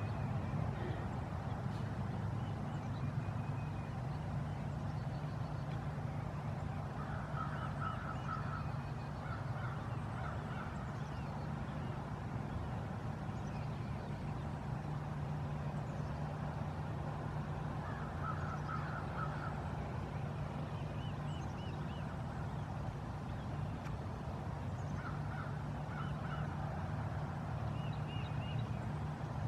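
A bird calling in short bursts of rapidly repeated notes, four or five times, over a steady low hum.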